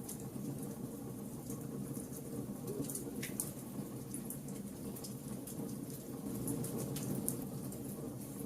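Wood fire burning: a steady low rush of flames with frequent small, irregular crackles and pops from the burning wood.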